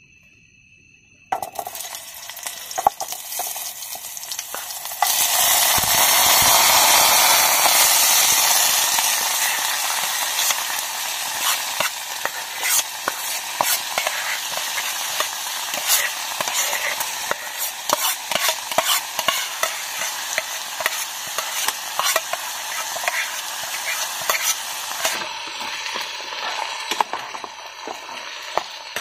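Food frying and sizzling in a hot pot while a spoon stirs it, clicking and scraping against the metal. A hiss starts about a second in, and a much louder sizzle swells about five seconds in, then slowly fades to a steadier fry.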